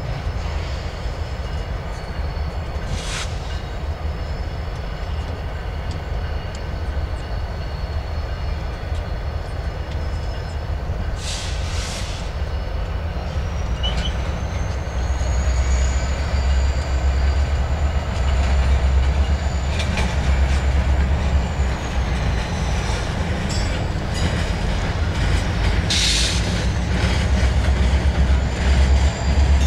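Freight train cars rolling through a rail yard with a steady low rumble, steel wheels squealing against the rails. One long high squeal rises and holds for several seconds near the middle, and short hissing bursts break in a few times.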